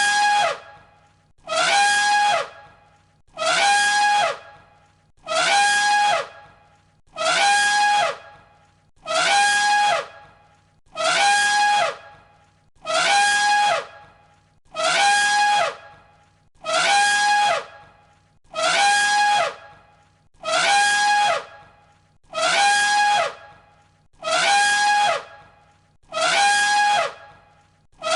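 An elephant trumpeting: one identical short call looped over and over, a brief loud blast about every two seconds.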